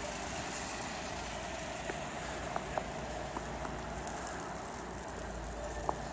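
Steady rushing noise of a blizzard, with wind rumbling on the microphone and a few faint ticks scattered through.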